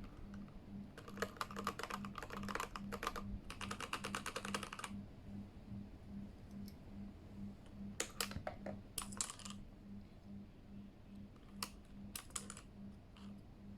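Typing on a Keychron K8 mechanical keyboard fitted with new keycaps, a bit quieter with them: two quick runs of keystrokes in the first five seconds, then a few scattered key clicks later on.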